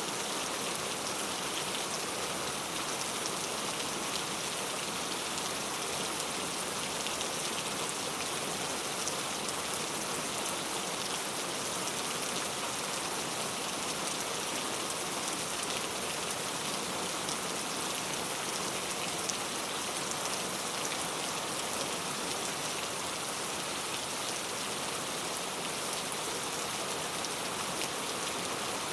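Heavy rain falling steadily on urban street surfaces: a dense, even hiss with fine drop ticks throughout.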